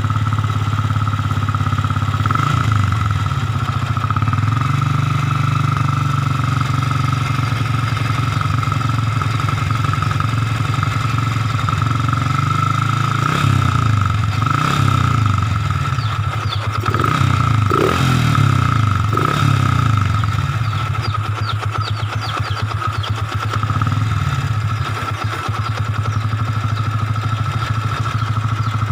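Yamaha Vixion motorcycle's single-cylinder four-stroke engine running through its stock exhaust: a steady idle, with a series of quick throttle blips midway that rise and fall in pitch before it settles back to idle.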